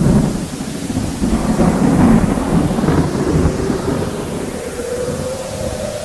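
Thunder: a sudden clap that rolls into a long low rumble, loudest about two seconds in and slowly fading, over steady rain.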